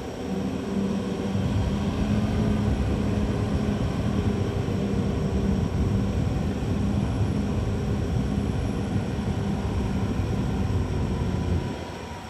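CAT D6R XL bulldozer's diesel engine running hard with a steady low drone, dropping away sharply near the end.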